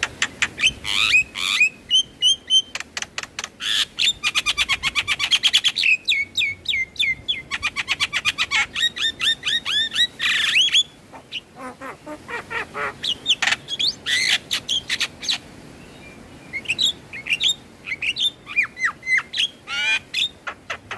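Javan myna singing: fast runs of sharp clicking notes and short whistles that sweep up and down, several a second, broken by brief lulls.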